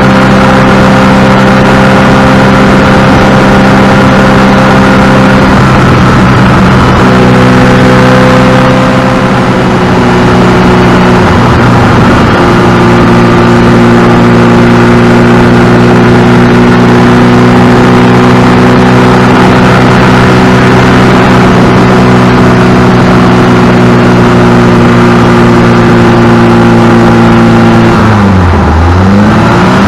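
Ferrari 308 GTS Quattrovalvole's mid-mounted V8 running under way at fairly steady revs, heard close up from the engine cover. The pitch shifts slightly a couple of times, and near the end the revs drop sharply and come back up.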